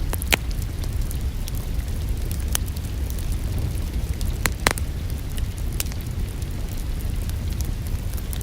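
Wood fire burning in a fireplace: a steady low rumble with scattered sharp crackles and pops. The loudest pops come about four and a half seconds in.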